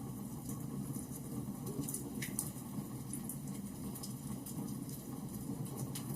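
Wood fire burning in a fireplace: a steady low rumble of flames with scattered small crackles and pops, one sharper pop a little over two seconds in.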